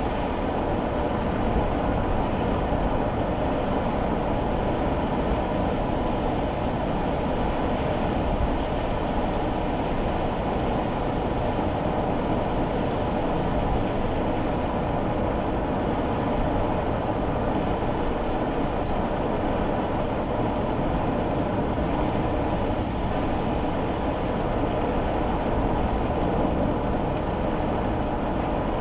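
Steady road noise and engine hum heard inside a kei car's cabin as it drives on rain-wet roads, with no distinct events.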